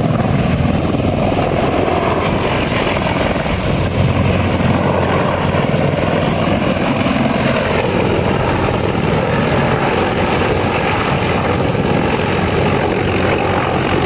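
CH-53E Super Stallion heavy-lift helicopter running steadily, the noise of its main rotor and three turbine engines.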